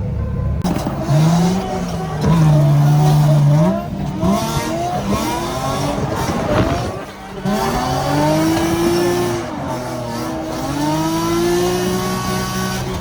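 Drift car engine revving hard with tyres squealing. The revs climb and hold high about two seconds in, drop away near the middle, then rise again twice.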